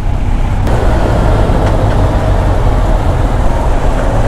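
Kawasaki Z900's inline-four engine running at a steady speed while the bike is ridden, with road noise.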